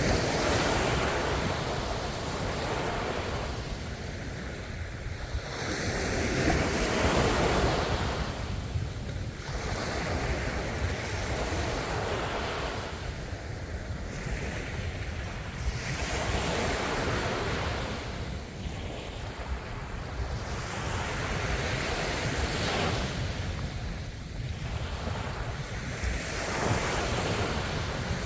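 Ocean waves breaking and washing on the shore, one surge swelling and ebbing every three to four seconds over a steady low rumble.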